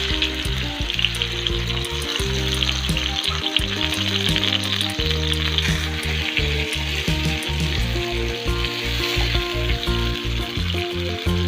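Chopped tomatoes sizzling in hot oil in a pan, a steady frying hiss, over instrumental background music.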